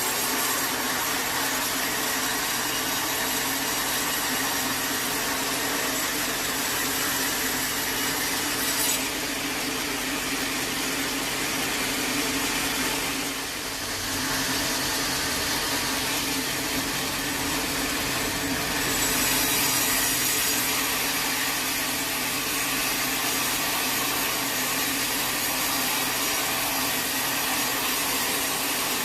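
Sawmill saw cutting through a teak log: a steady, continuous cutting noise that dips briefly about halfway through, then carries on.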